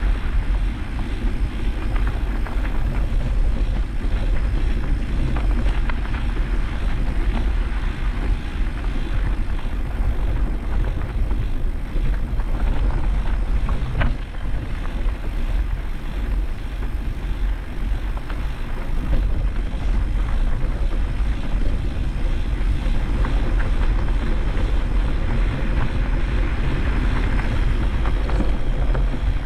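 Motocross motorcycles running on the track, heard as a continuous engine din, with wind buffeting the microphone.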